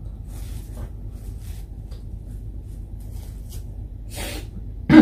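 Close-up eating sounds of a person eating rice and fried food by hand: short, irregular chewing and lip-smacking noises over a steady low hum. Right at the end there is a loud, brief vocal sound.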